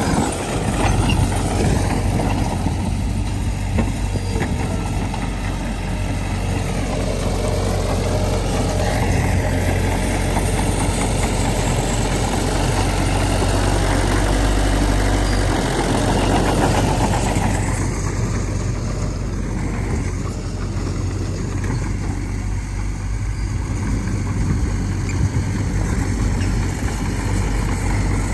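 Heavy diesel machinery engine running steadily with a low hum. The higher-pitched noise over it fades about eighteen seconds in.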